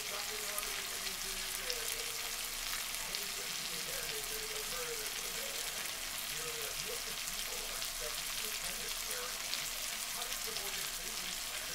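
Chicken breasts frying in butter in a nonstick skillet: a steady sizzle with light crackling pops.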